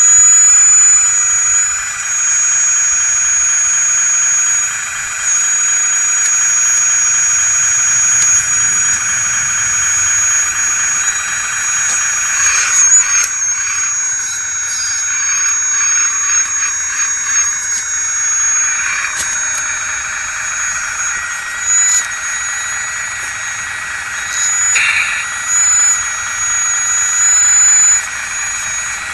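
1/16-scale full-metal RC hydraulic wheeled excavator running: a steady, high-pitched whine from its hydraulic pump and motors, which turns rougher and busier for several seconds around the middle as the machine works.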